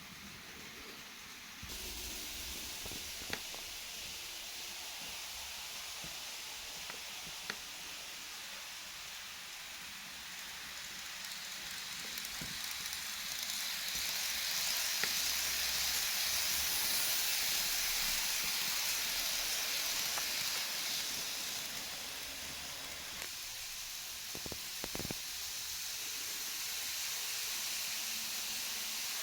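KATO E233 series model train running on its track: a steady hissing whir of motor and wheels that grows louder about halfway through and then eases off, with a few faint clicks.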